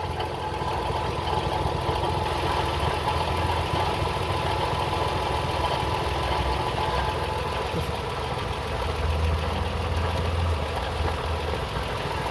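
2004 Toyota Sienna's 3.3-litre V6 idling steadily with a rattling noise from the engine, which the owner links to a leaking, failing water pump behind the timing belt.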